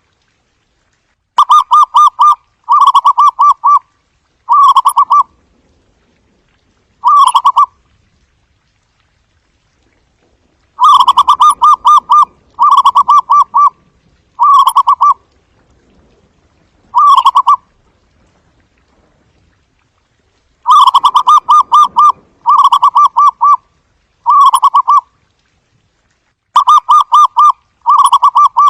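Zebra dove cooing: soft, rapid staccato trilled coos. They come in four bouts of three or four phrases each, with a pause of a few seconds between bouts and the later phrases of a bout shorter.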